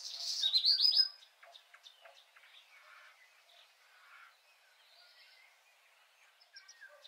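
Small birds chirping: a quick run of high, rising chirps in the first second, then only faint scattered chirps over a low background hiss.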